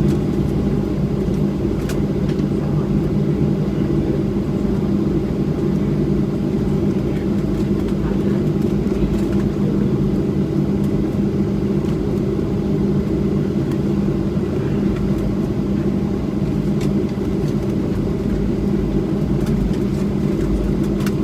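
Steady cabin drone of a Boeing 737-700 taxiing in after landing, its CFM56 engines at low thrust: an even rumble with a few unchanging low hums.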